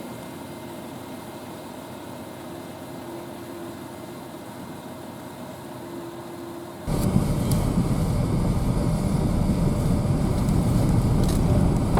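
Vehicle running on a road: a steady low cabin hum, then about seven seconds in an abrupt switch to a much louder, rough rumbling road noise.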